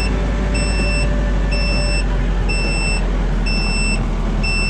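Vehicle reversing alarm beeping, a high tone about half a second long once a second, over the steady low rumble of an engine running.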